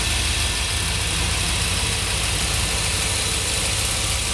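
Engine of a restored 1946 woodie station wagon idling steadily.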